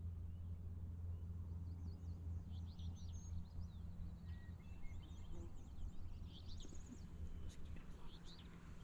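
Small birds chirping, quick high calls coming in two short bouts, over a steady low hum.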